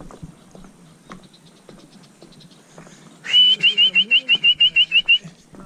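A bird calling: a quick, loud run of about a dozen high chirps, some seven a second, lasting about two seconds, starting a little past halfway.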